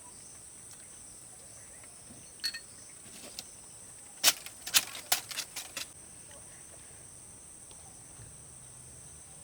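Steady high-pitched chirring of insects, crickets or cicadas, runs throughout. A couple of sharp clicks come a few seconds in, followed by a quick run of about eight loud clicks over a second and a half, after which only the insects remain.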